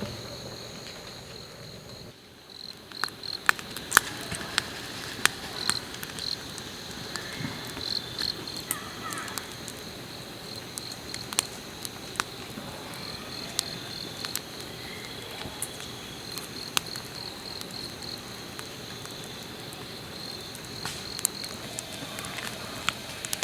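Insects, likely crickets, chirping in a steady high trill. Scattered sharp clicks and taps come through it from about three seconds in.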